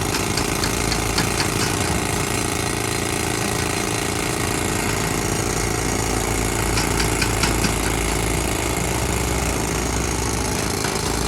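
Heavy machinery's diesel engine running steadily, with two short runs of rapid sharp knocks, a few a second, one at the start and one about seven seconds in.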